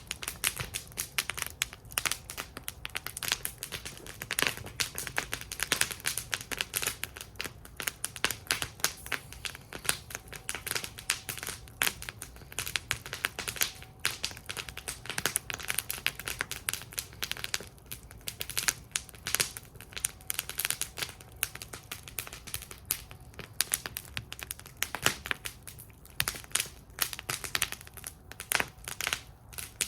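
Wood fire crackling in a fire bowl: a dense, irregular stream of sharp pops and snaps over a faint low hiss of the flames.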